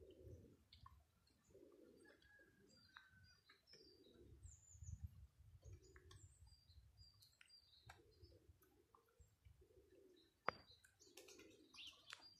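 Faint bird calls: a low cooing repeated every second or two, with short high chirps from small birds. A single sharp click about ten and a half seconds in.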